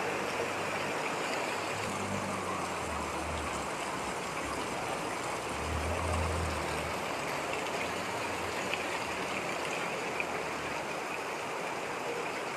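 Heavy rain and flowing floodwater making a steady rushing hiss, with a motor vehicle's engine running low underneath, swelling about six seconds in.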